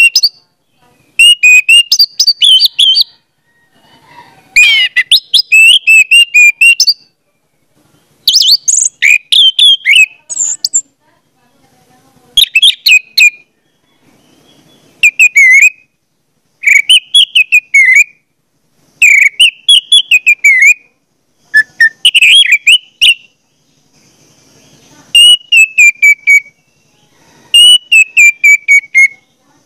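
Loud, bird-like whistling in short repeated phrases of one to two seconds, each a quick warble of rising and falling notes, with brief pauses between phrases.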